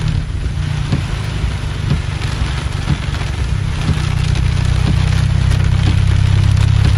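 Heavy rain pelting a car's windshield and roof, heard from inside the car, over a steady low rumble that grows louder about halfway through. A faint knock recurs about once a second.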